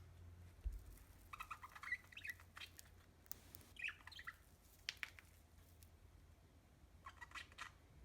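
Budgerigar giving faint short chirps in three brief bouts, with a few sharp clicks between them.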